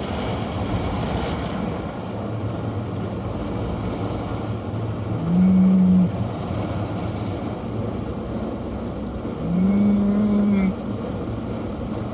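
Steady car cabin noise from inside a car, broken twice by a loud, steady low hum lasting about a second, the second hum a few seconds after the first.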